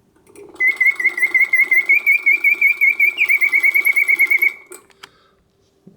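Karl Griesbaum singing bird cage automaton's bellows-driven whistle singing a rapid warbling trill for about four seconds, with a jump in pitch partway through, then stopping. The song resumes after a long pause, which shows the pause mechanism working as it should.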